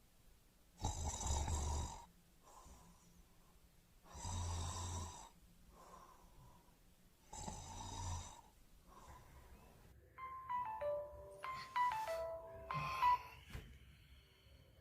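A person snoring three times, about three seconds apart, then a short electronic tune of stepping notes like a phone alarm going off.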